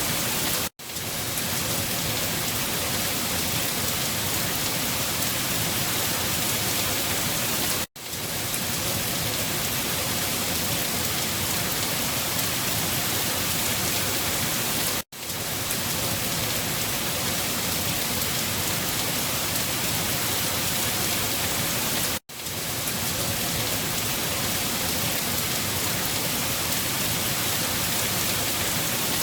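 Steady rainfall, an even hiss of many drops with no thunder. It cuts out for a split second four times, about every seven seconds, where the recording loops.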